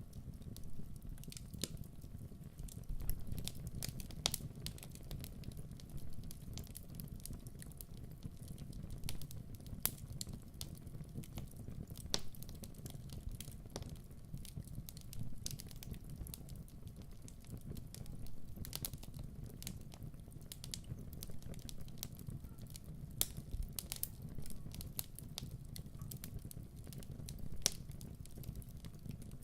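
Wood fire burning, with a steady low rumble of flame and frequent irregular sharp crackles and pops.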